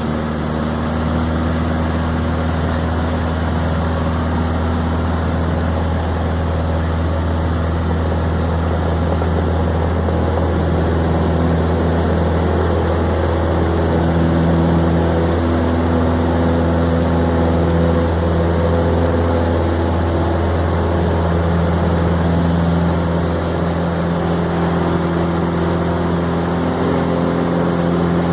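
Cessna 150 light aircraft's piston engine and propeller running with a steady, loud drone.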